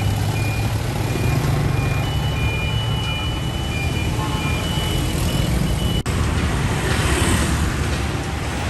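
Road traffic with a steady low engine rumble from motor vehicles. About six seconds in the sound breaks off for an instant, then a rushing noise of passing traffic rises and fades.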